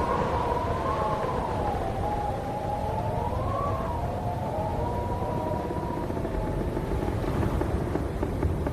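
Howling wind: a wavering whistle that slowly rises and falls in pitch over a low, rushing rumble, the whistle dying away about two-thirds of the way through.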